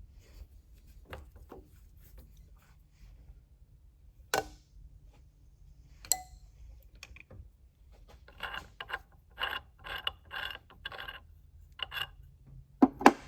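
Mechanical clicks and a run of about eight short ratcheting strokes, about two a second, from hand work on a milling machine set-up. Two loud clicks come near the end.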